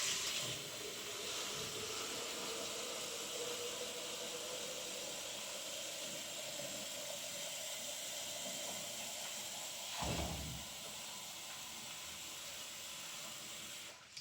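A steady hiss with a faint tone slowly rising in pitch, and a single thump about ten seconds in.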